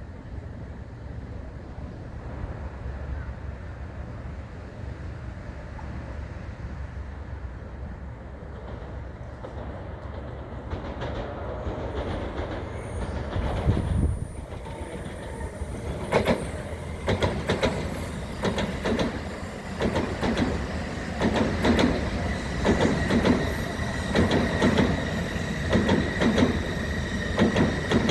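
Tokaido Shinkansen train approaching along the station track: a low rumble builds, then from about halfway through a regular clatter of wheels over the track rises in volume, joined by a steady high whine.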